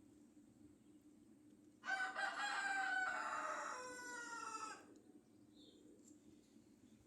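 A rooster crowing once: a single call lasting about three seconds, starting about two seconds in, its pitch sliding down toward the end.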